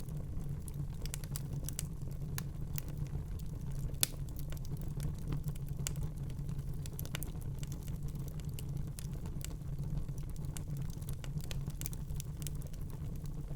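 Wood fire in a fireplace crackling: irregular sharp snaps and pops over a steady low rumble of the flames, with one louder pop about four seconds in.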